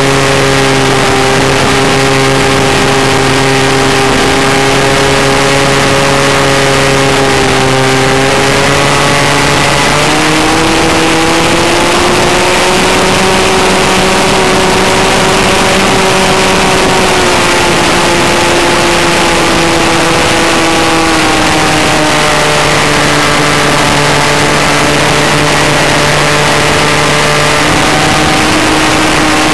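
Falcon 56 RC model airplane's engine and propeller running in flight, heard from a camera mounted on the plane, with wind rushing over the microphone. The pitch steps up about ten seconds in, drops back in two steps in the second half, and rises again near the end as the throttle changes.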